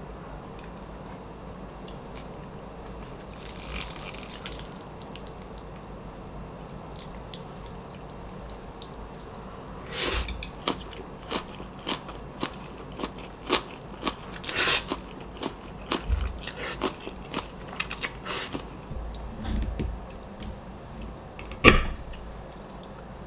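Kitchen sounds over a low steady hum: from about ten seconds in, an irregular run of sharp clicks and knocks, with one loudest knock near the end.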